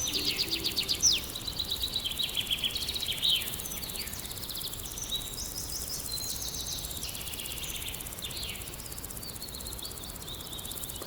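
Several wild songbirds calling at once, with rapid chirps and trills over a steady outdoor hiss; busiest in the first few seconds, then thinner.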